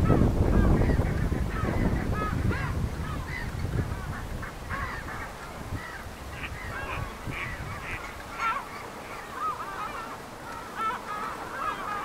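A flock of birds calling, many short overlapping calls, with a low rumble that fades away over the first few seconds.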